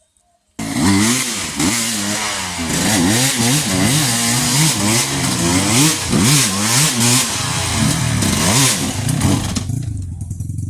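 Trail motorcycle engine revved hard again and again, its pitch rising and falling in quick surges, as on a bike struggling up a steep muddy climb. It cuts in suddenly about half a second in and falls away near the end.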